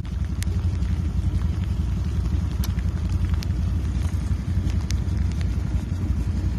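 SUV engine running with a steady low drone while the truck sits stuck in deep mud.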